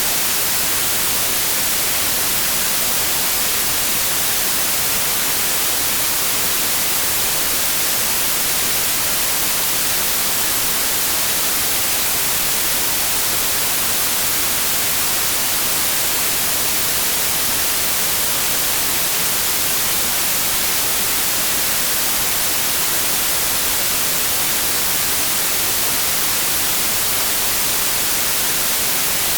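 Steady synthetic white noise: an even, unchanging hiss, strongest in the highs.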